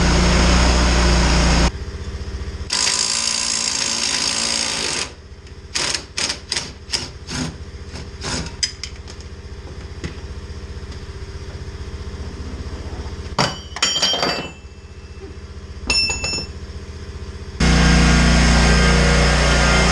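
An engine running steadily, which cuts out about two seconds in and comes back near the end. In between, a rapid run of sharp knocks comes closer and closer together, followed by two short clusters of clinks with a brief metallic ring, like tools and metal parts being handled.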